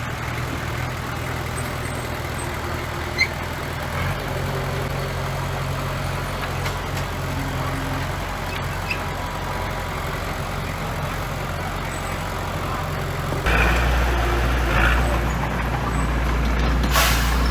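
Heavy diesel engine of construction machinery running steadily, growing louder about thirteen seconds in, with a short hiss near the end.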